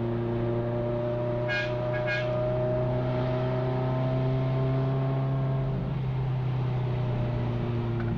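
Ferrari F355's 3.5-litre V8 heard from inside the cabin, running under load with its pitch slowly rising as the car gathers speed, then dropping at about six seconds as the driver eases off or shifts. Two short high beeps sound about a second and a half in.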